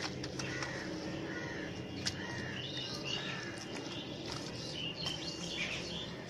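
Small birds chirping: a run of short, quick calls repeating throughout, over a steady low background hum.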